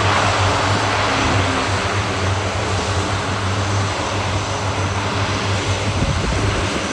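The Lockheed C-130J Hercules' four turboprop engines and six-bladed propellers running with a steady low propeller drone and a broad rushing noise as the aircraft taxis down the runway. The sound eases slightly as it moves away.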